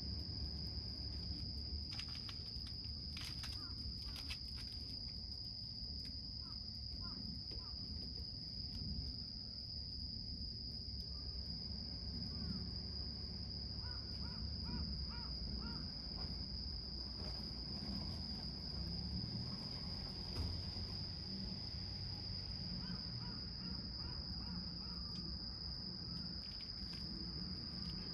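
A steady high-pitched insect trill over a low rumble, with a few faint crackles from a small wood fire burning in a can.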